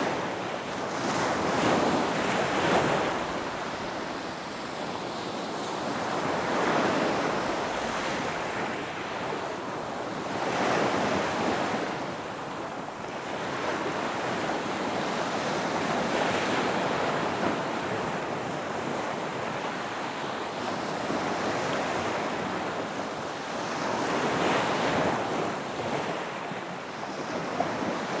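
Ocean waves breaking on a beach, each one swelling into a crash and washing back every few seconds, with no pause between them.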